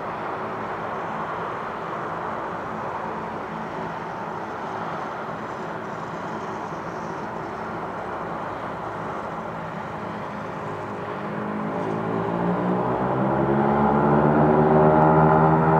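Dash 8-100 turboprop airliner's engines and propellers: a steady hum for most of the stretch, then about eleven seconds in the propeller drone grows much louder and climbs slowly in pitch.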